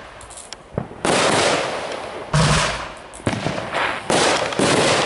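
Consumer aerial fireworks going off: about five loud bangs in quick succession, starting about a second in, each trailing off over a second or so, one with a heavy low thump.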